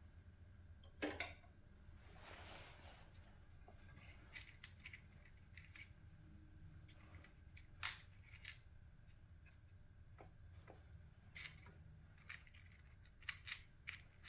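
Faint, scattered sharp clicks and snips of small hand tools working on wire while fork and spade terminals are fitted. One louder click comes about eight seconds in.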